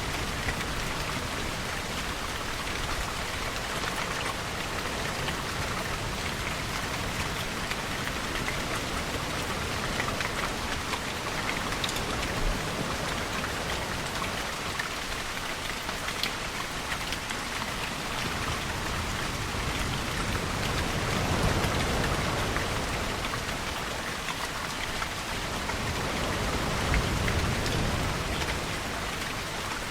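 Steady rainfall hissing evenly, with scattered sharper drop ticks. Twice in the second half, once a little over two-thirds in and again near the end, a deeper swell rises and fades.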